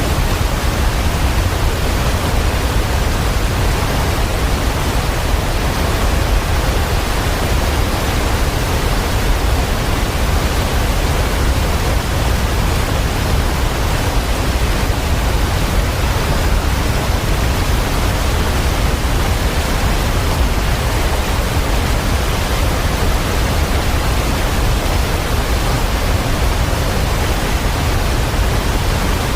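Steady rain, a dense even rush of noise with no separate drops, thunder or other sounds standing out.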